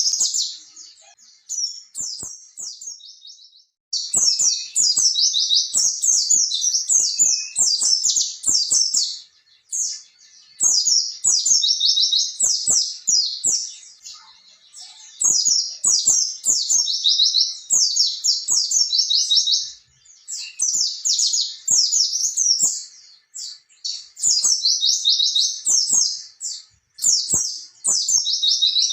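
White-eye (pleci) singing a long, rapid, high-pitched twittering song, in runs of a few seconds with brief pauses between them.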